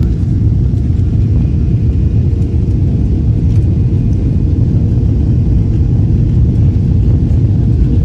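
Jet airliner heard from inside the cabin during takeoff: a loud, steady rumble of the engines at high power with a constant low hum.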